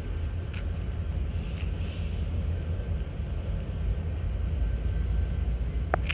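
Steady low rumble of railyard train movement, growing slowly louder, with a few faint clicks and a brief high squeal near the end.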